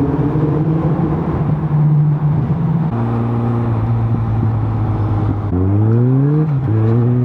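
Suzuki GSX650F's inline-four engine heard from the rider's position, running at a steady cruise over wind and road noise. About five and a half seconds in it accelerates, its pitch rising for about a second, then drops sharply at a gear change and settles again.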